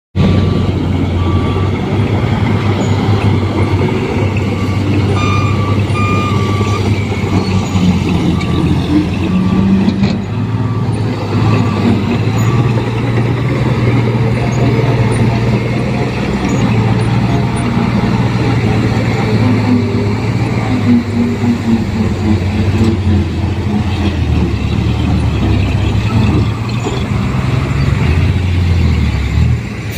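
Diesel dump truck engine running steadily, with a short repeated beep sounding for about the first twelve seconds.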